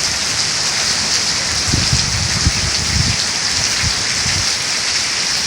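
Heavy rain pouring steadily in a thunderstorm, a dense even hiss. A low rumble comes and goes from about two seconds in until past the four-second mark.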